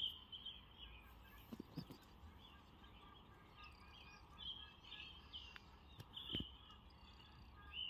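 Small birds chirping: faint, short, high chirps repeating irregularly over a low, steady background noise.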